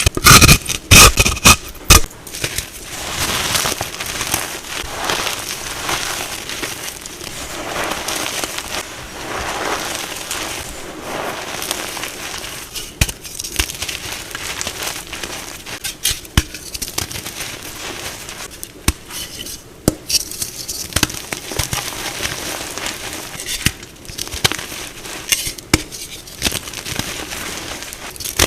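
A block of plain gym chalk being crushed and scraped. It gives loud crunching cracks in the first two seconds, then a steady run of soft crackling and scraping with occasional sharp snaps.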